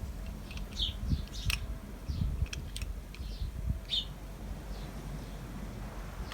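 A small bird chirping in short, scattered calls, over a low rumble with a few dull low thumps.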